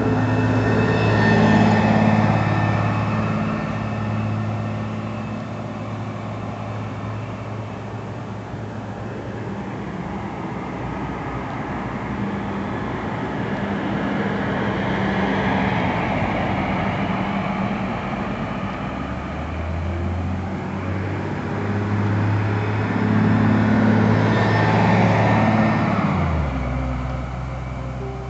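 Diesel engines of single-deck buses pulling up a hill, passing close by: loudest near the start and again near the end, with a steadier engine drone between.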